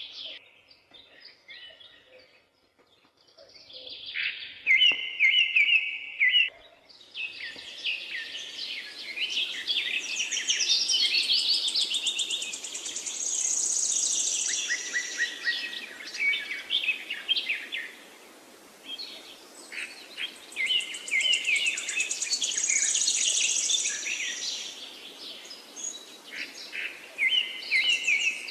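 Forest songbirds singing and calling: a few chirps and a repeated trill at first, then a dense overlapping chorus of chirps, trills and high whistles from about seven seconds in, over a steady hiss of forest ambience.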